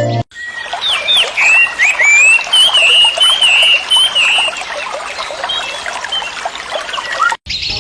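Wild birds calling, with a run of repeated rising notes over a dense background chorus of many short chirps and calls. It cuts out briefly near the end.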